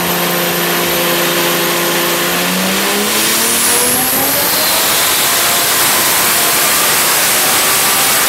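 R33 Nissan Skyline's engine running on a chassis dyno: it holds steady for about two and a half seconds, then climbs steadily in revs, a dyno power run. A faint high whine rises along with it.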